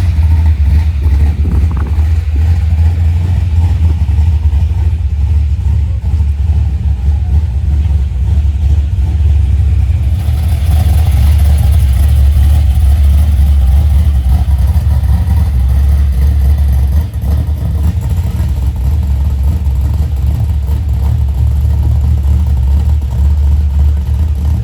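Car engine running loudly with a deep, steady rumble, just after starting. About ten seconds in the sound brightens as the engine picks up, and it eases briefly about seventeen seconds in.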